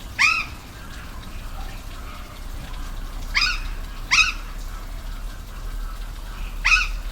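Steady rush of a waterfall, with four short, loud animal calls over it, each a quick upward-sweeping cry; two come close together in the middle.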